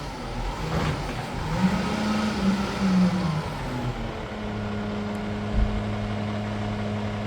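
Peterbilt McNeilus front-loader garbage truck's diesel engine revving up and down twice, as when it drives the lift arms' hydraulics, then holding a steady raised idle from about four seconds in. A single dull thump comes partway through the steady part.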